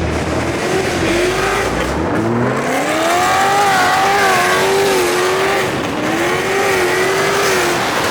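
A car drifting: the engine revs hard, its pitch climbing about two seconds in and then wavering up and down as the throttle is worked, with the tyres squealing.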